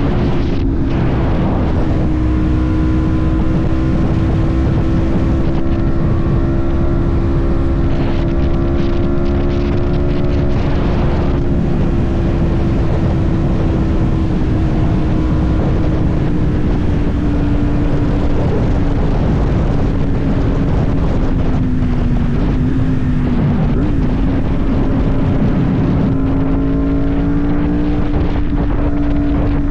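Yamaha MT-10 motorcycle's inline-four engine running at a steady cruising speed, its note drifting only slightly up and down, under heavy wind noise on the microphone.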